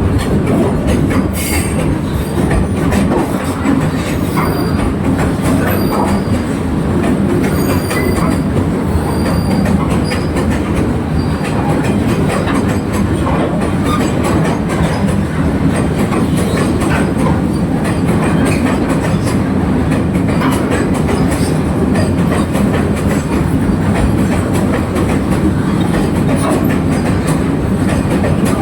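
Train hauled by a WAG-9 electric locomotive running on the track: a steady loud rumble with rapid clicks of wheels over the rails and a few brief faint high squeals in the first ten seconds.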